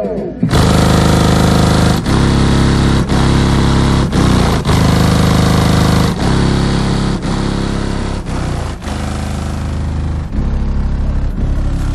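Loud bass-heavy music played through six 12-inch subwoofers in a 6th-order bandpass enclosure. The deep notes are held, with short breaks about once a second.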